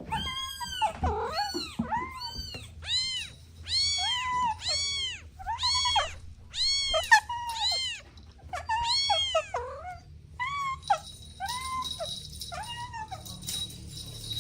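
Kittens meowing in a quick series of about twenty short, high-pitched meows, each rising and then falling in pitch. The calls come every half second or so and space out over the last few seconds.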